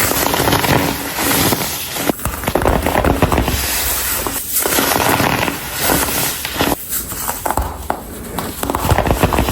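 Hardened, dyed baking soda being crumbled by hand, a dense crunching and crackling in several squeezes separated by brief pauses.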